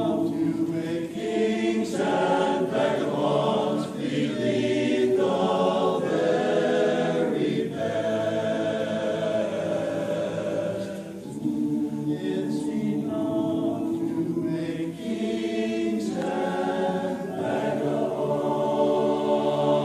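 A group of voices singing together in chorus, holding long notes that shift every second or two, with brief breaks between phrases.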